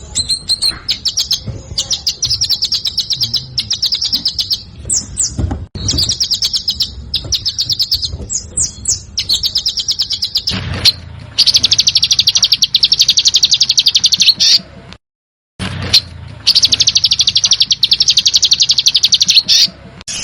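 A songbird's besetan: long, very fast rattling trills, repeated several times and each lasting one to three seconds, with short sharp chirps between them. The sound cuts out completely for about half a second about three quarters of the way through.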